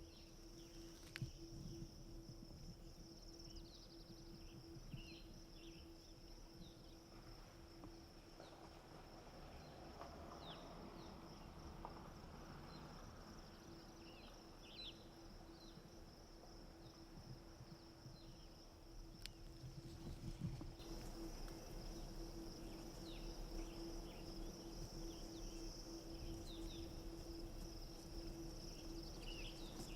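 Faint outdoor ambience: a steady high-pitched insect drone with scattered faint short chirps over a low background.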